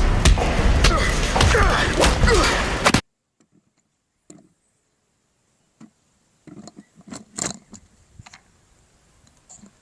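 A loud film soundtrack of music and effects cuts off suddenly about three seconds in. Near silence follows, then a few scattered clicks and knocks of plastic toy pieces being handled.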